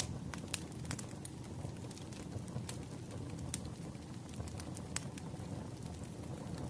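Wood fire crackling: a steady low rumble of burning logs with sharp pops and snaps scattered through, a few louder ones about half a second in and near five seconds.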